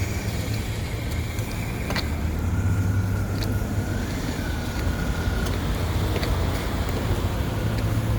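Motor vehicle engine running steadily with road noise, with a few sharp clicks and a faint steady tone for a few seconds midway.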